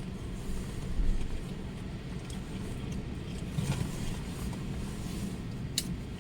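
Strong storm wind buffeting the microphone: a steady low rumble, with a single sharp click near the end.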